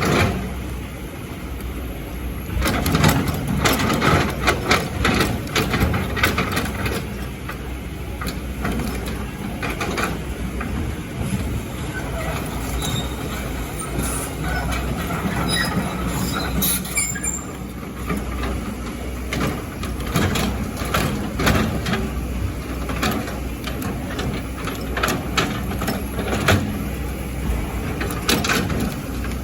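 Excavator's diesel engine running steadily, with repeated knocks and clatter of rock and sand against the steel bucket, and a few short high squeaks about halfway through.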